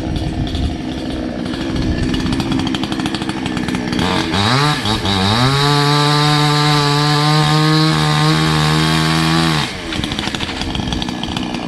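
Salem Master 20-inch two-stroke chainsaw at a low, uneven idle, then throttled up about four seconds in. Its pitch rises and holds steady at full throttle for about four seconds, then falls back to idle near the end.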